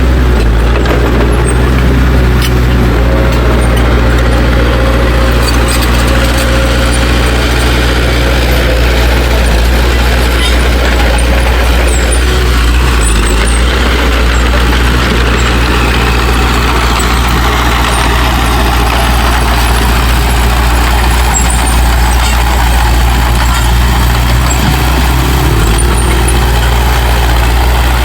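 Heavy earthmoving machine's diesel engine running steadily under load, a low constant drone with mechanical noise above it.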